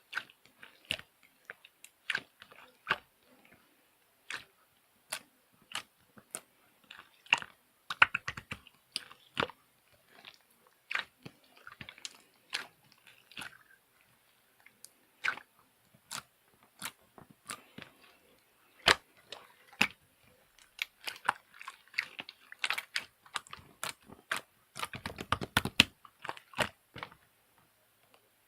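Pink slime being squeezed and stretched by hand, giving irregular sharp clicks and pops, with a dense run of crackling near the end.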